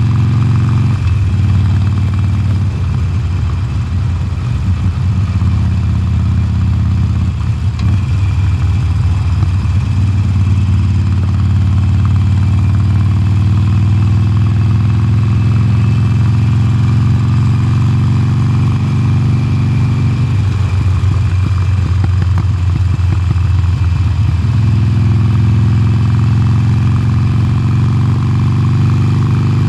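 2020 Harley-Davidson Sportster Forty-Eight's air-cooled V-twin running through its stock exhaust, heard from the rider's seat. It has a steady low rumble that turns rougher and more pulsing a few times as the throttle changes.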